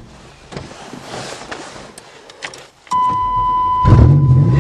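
Keys and small clicks, then a steady electronic warning tone comes on about three seconds in. About a second later the Chevy's fuel-injected engine cranks and fires on a cold start, catching at once and running.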